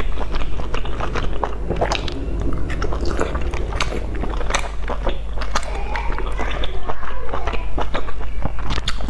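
Close-miked chewing of boiled dumplings: repeated wet mouth clicks and smacks. A steady low electrical hum runs underneath.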